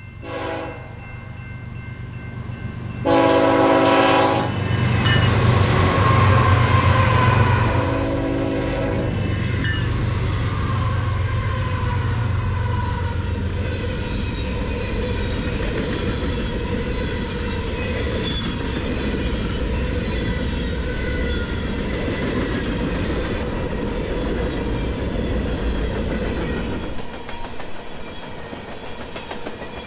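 Diesel freight train passing: the locomotive horn sounds a brief toot, then a long blast about three seconds in and a shorter one about eight seconds in, over the heavy drone of the diesel engines. After that the freight cars roll by with a steady rumble and wheel clatter that eases off near the end.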